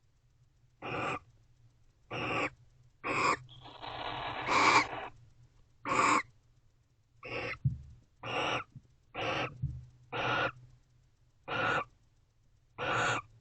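Barn owls calling in the nest box: a series of short raspy, hissing calls about once a second, with one longer drawn-out call a few seconds in.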